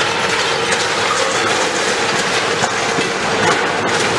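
Heavy demolition machinery working: a steady, loud metallic clatter with many small knocks and rattles over a constant mid-pitched tone.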